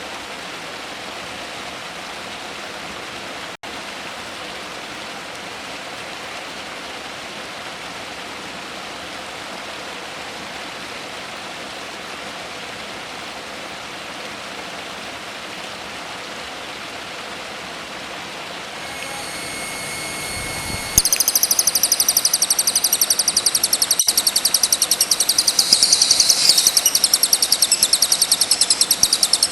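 A steady rushing noise, like flowing water, then about two-thirds of the way in a loud, shrill, fast-chattering songbird song starts abruptly and keeps going.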